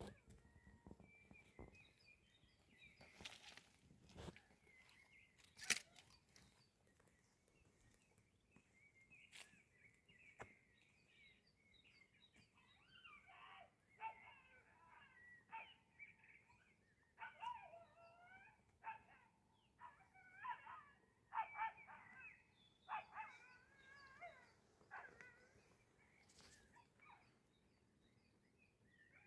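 Faint high animal calls: many short, wavering calls in quick runs through the second half. A few sharp knocks come in the first few seconds.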